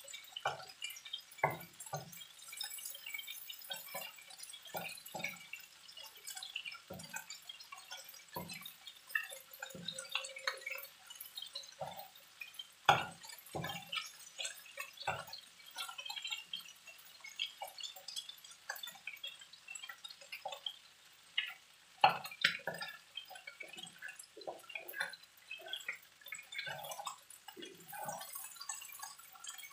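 Shrimp frying in hot oil in a nonstick wok, crackling and spitting with irregular pops over a steady hiss, while a spatula stirs and scrapes through them, with a couple of louder clacks against the pan.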